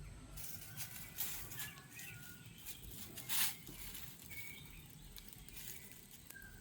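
Kittens scuffling and scrabbling as they play: scattered soft rustles and scratches, with a louder brushing scuff about three and a half seconds in. Faint bird chirps are heard in the background.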